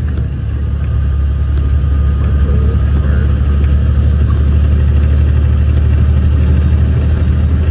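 Off-highway logging truck's diesel engine running, heard from inside the cab as a loud, steady low rumble. Its level dips briefly just after the start, then holds steady.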